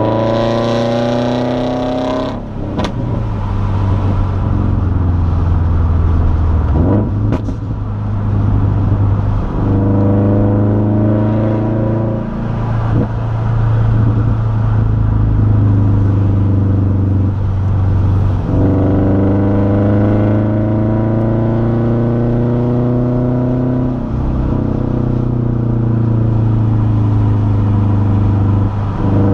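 Subaru Impreza 2.0i's FB20 flat-four with an aftermarket exhaust, heard from inside the cabin while driving. The engine note climbs in pitch several times under acceleration, each climb broken off by a drop in revs, with a couple of brief knocks in the first several seconds.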